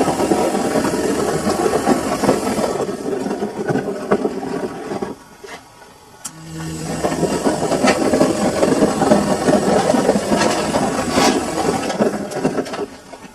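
Samsung washing machine drum turning a full load of laundry, with the motor hum and tumbling noise of the wash; it stops for a moment about five seconds in, then starts turning again, as in the wash cycle's alternating drum rotation.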